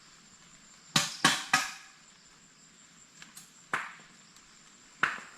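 Loud, sharp knocks from an unseen source, which the listener likens to someone banging on a pot: three in quick succession about a second in, then single knocks near four and five seconds in, each with a short ring.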